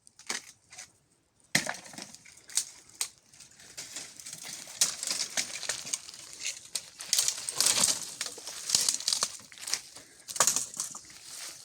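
Dry brushwood and twigs cracking and snapping in a quick, irregular run of sharp cracks and crackling, as firewood is broken and gathered.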